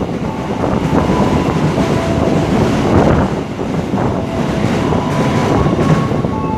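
Train running on the track at close range, a loud steady rumble of wheels on rail, with faint thin squealing tones from the wheels coming and going.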